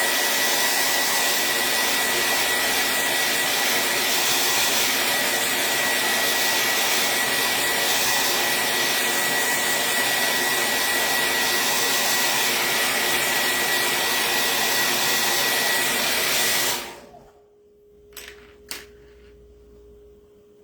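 Handheld electric hot-air dryer blowing steadily with a high motor whine, drying freshly applied chalk paste. It switches off about seventeen seconds in, followed by a couple of faint clicks.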